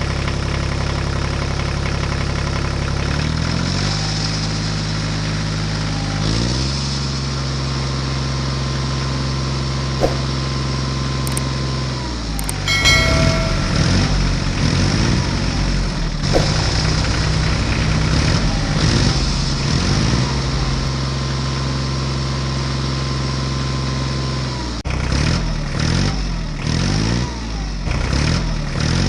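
Miniature DIY tractor's engine running steadily, its pitch changing in steps now and then. In the last few seconds it revs up and down over and over.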